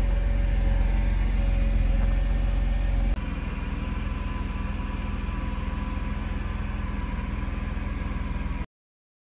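Mercedes-Benz W124 300E's straight-six idling steadily just after a cold start, heard from behind the car near the exhaust. The sound drops a little about three seconds in and cuts off suddenly near the end.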